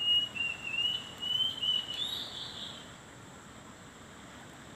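A bird singing a wavering, warbling song for about three seconds, fading out about three seconds in.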